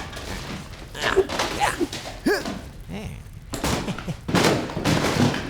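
Cartoon sound effects: a series of thumps and rustling bursts, with a few short voice-like grunts in the middle.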